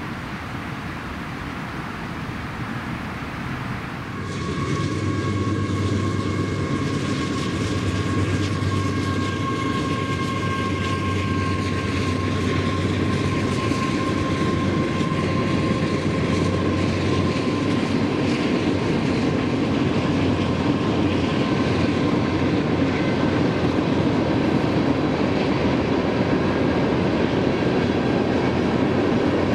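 Freight train running along the far riverbank, coming in about four seconds in. A diesel locomotive's steady hum comes first, then a long string of tank cars rolls by with a steady rumble of wheels on rail.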